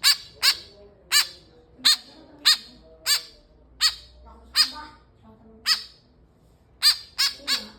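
Young white-breasted woodswallow (kekep) giving short, harsh calls over and over, roughly one or two a second, with a pause around the middle and three quick calls near the end.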